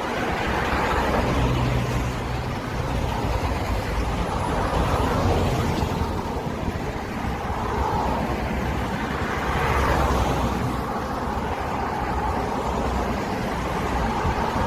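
Motorcycle running at steady speed while riding, with wind rushing over the microphone and the engine's low drone rising and easing slightly.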